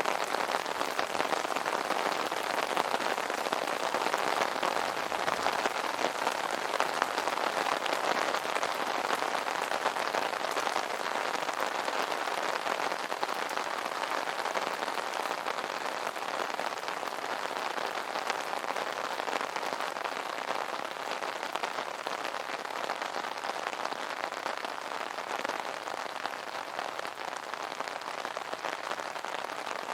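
Steady rain drumming on an umbrella's fabric canopy, a dense patter of drops without thunder, easing slightly near the end.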